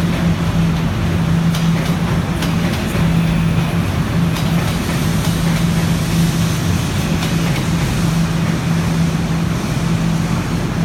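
Guangzhou Metro Line 1 train running at a steady pace: an even rumble with a constant low hum and a few light clicks.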